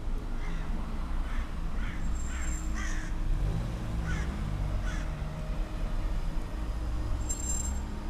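A bird calling repeatedly, a series of short calls in the first five seconds, over a steady low rumble.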